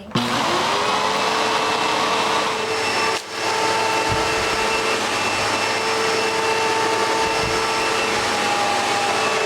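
Hoover Legacy upright vacuum cleaner switched on and running steadily, its motor settling to a steady hum within the first half second, with one brief dip in level about three seconds in. It is being run to test a newly fitted brush-roll belt.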